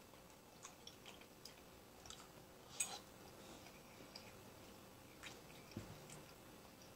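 Very faint chewing of food, with a few soft clicks, the loudest about three seconds in.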